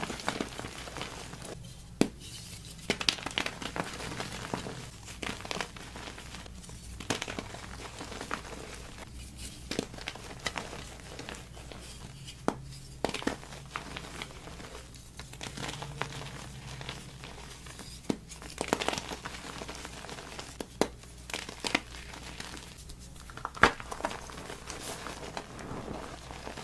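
Chalk being crumbled and crushed, a continuous crisp crackling with irregular sharp snaps, a few of them louder cracks.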